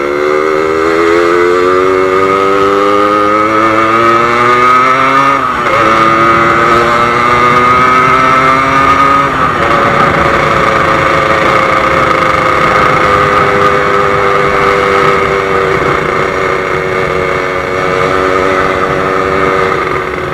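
Yamaha RX-King two-stroke single-cylinder motorcycle engine accelerating, its pitch climbing and dropping at two upshifts, about five and a half and nine and a half seconds in. It then settles into a steady cruise, easing off slightly near the end.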